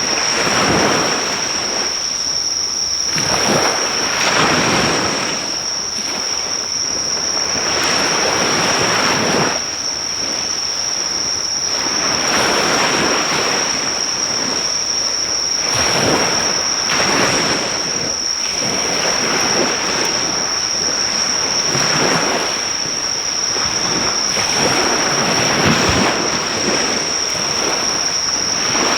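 Surf breaking on the shore, each wave swelling and falling away every few seconds, with a steady high-pitched insect trill running underneath; any crackle from the driftwood fire is buried under the waves.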